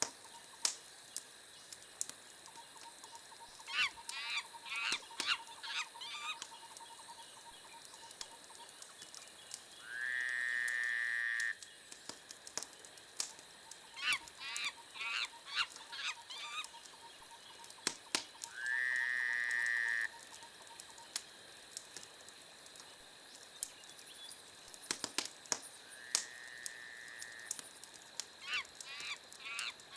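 Wood fire crackling with scattered sharp pops. Clusters of quick chirp-like squeaks come three times, and a higher whistling tone is held for about a second and a half three times, roughly eight seconds apart.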